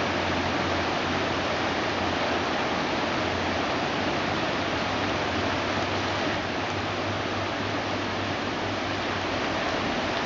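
Flooded creek water rushing fast over its banks, a steady, even rush.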